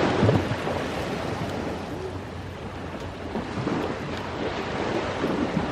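Ocean waves breaking and washing on the shore, a steady surf rush that swells briefly at the start.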